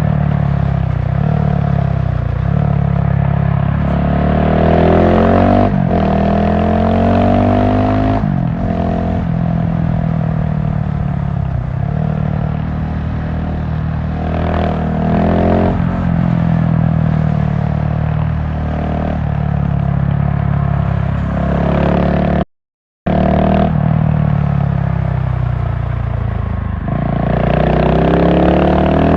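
GasGas SM700 supermoto's big single-cylinder engine under way, pulling up through the revs again and again, each climb in pitch ending in a drop as it shifts or rolls off the throttle. The sound cuts out completely for about half a second a little past two-thirds of the way through.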